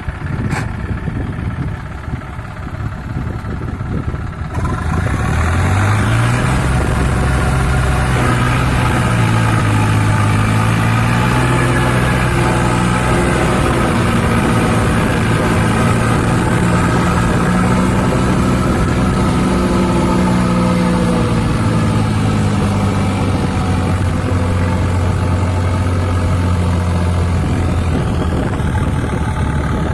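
John Deere 5050D tractor's three-cylinder diesel engine, heavily loaded pulling a full trolley. It rumbles low at first, then about five seconds in the throttle opens and the engine runs loud and steady under the load, its pitch sagging and recovering slightly. It eases off a little near the end.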